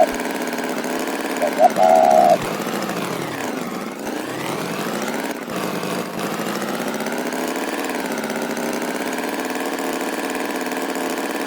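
Steady droning engine, its tone sweeping as if phasing about a third of the way through, with a short two-part beep (one quick, one longer) about two seconds in.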